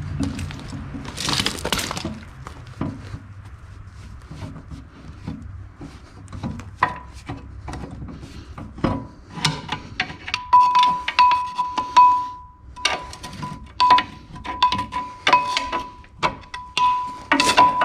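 Metal clinking and knocking from work on a heavy engine flywheel and its bolts, with a scrape-like rush about a second in. In the second half come many sharp clicks, several with a short clear ring of struck steel.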